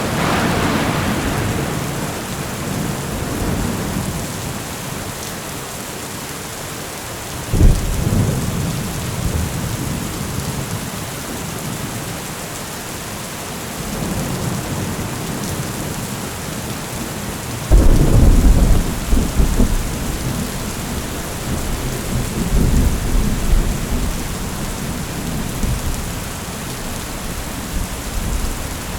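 Steady rain with thunder: a rumble dies away over the first few seconds, then two sudden loud thunderclaps, the first about a quarter of the way in and the second a little past halfway, each rolling on for several seconds.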